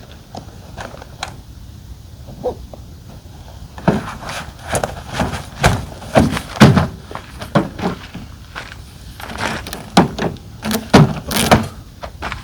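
Irregular knocks, thuds and bumps of camping gear and truck-bed hardware being handled, a few faint ones at first, then a busy run of sharper, louder knocks from about four seconds in.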